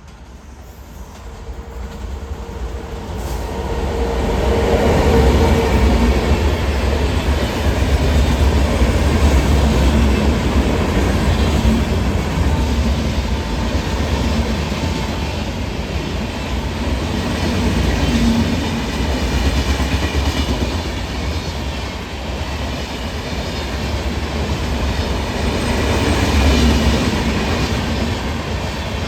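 Bihar Sampark Kranti Express passenger train running past: a rumble that builds up over the first few seconds, then a long, loud, steady run of coaches rolling by with swells in level.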